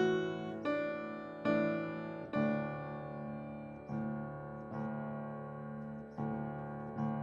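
Solo piano playing a slow piece, one chord struck about every second at first, then further apart and softer, each ringing out and fading.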